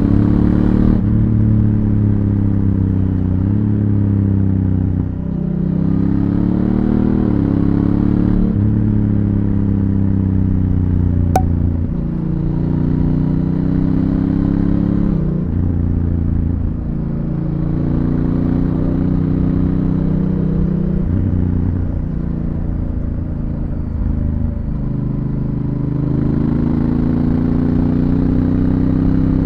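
Honda Africa Twin CRF1000L's 270-degree parallel-twin engine through its stock exhaust, accelerating again and again: the pitch climbs, then drops as the dual-clutch transmission shifts gears, about five times. A single sharp click comes about eleven seconds in.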